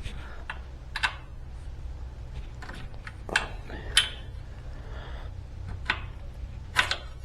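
Irregular light metallic clicks and taps, about half a dozen, from bolts being worked into the landing gear mounting holes of a kit helicopter's airframe.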